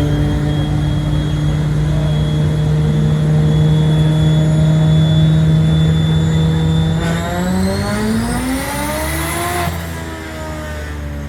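Car engine held at steady high revs, then revved harder with a rising pitch before the revs drop away near the end.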